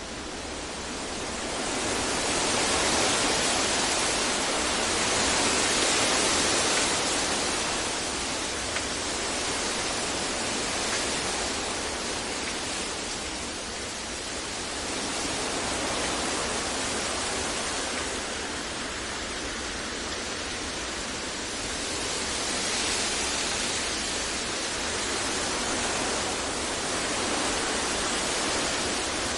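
Continuous sleep noise, an even hiss that slowly swells and fades every several seconds.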